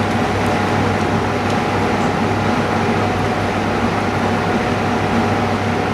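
Steady mechanical hum with an even hiss, unchanging throughout, typical of a running machine or fan.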